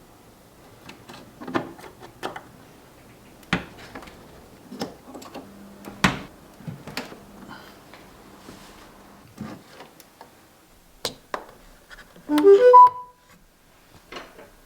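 Scattered light clicks and taps. About twelve seconds in comes a quick run of four short notes rising in pitch, the loudest sound.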